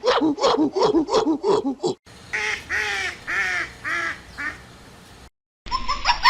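Animal calls from two separate recordings: a fast run of short pitched calls, about eight a second, then, after a cut, about five short arched calls in steady succession. A new call starts right at the end.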